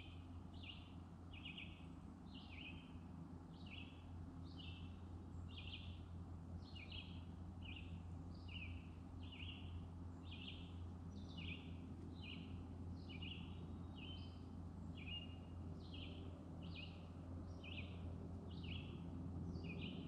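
A bird calling with a short high chirp, repeated evenly about three times every two seconds, over a faint steady low hum.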